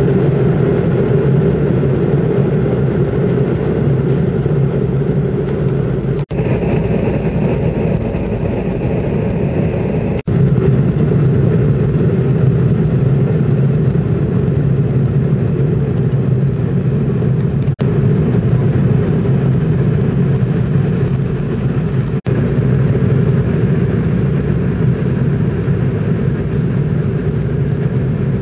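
Airliner cabin noise: the steady drone of the jet engines and airflow heard from a passenger seat, broken four times by very short dropouts.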